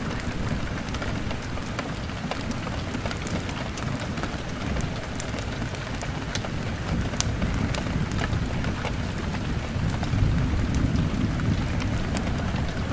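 Rain hammering on a window, a steady low rumble underneath and many scattered sharp crackles and taps, blended with a crackling log fire.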